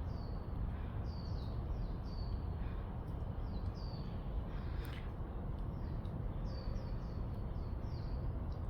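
A small songbird calling in quick runs of short, high, down-slurred chirps, over a steady low rumble.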